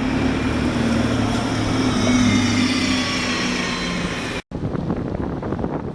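A train running with a steady low hum and faint higher whine, cut off abruptly about four and a half seconds in; after the cut, wind buffeting the microphone.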